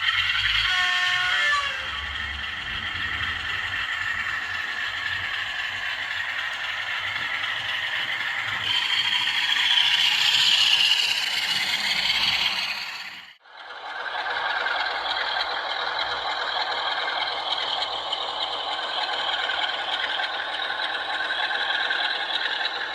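OO gauge Class 47 diesel locomotive models running with LokSound DCC sound decoders, playing a Sulzer engine sound through small onboard speakers over the rattle and clatter of the wheels on model track. The sound cuts out briefly about halfway through, then resumes at a steadier level.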